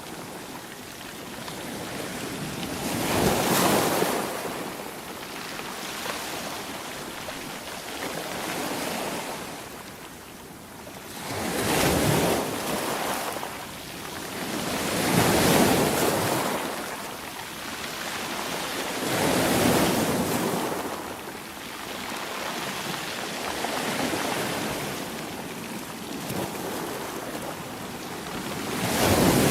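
Sea waves breaking and washing in, in slow surges that swell and fade every few seconds.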